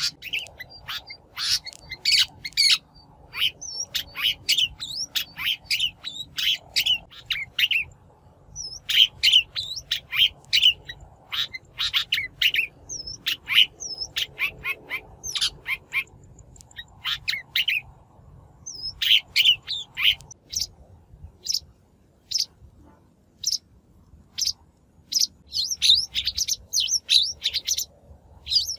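Shrike calling: runs of rapid, short, sharp chirping notes in bursts separated by brief pauses. It is a lure-call recording of the kind played to attract shrikes.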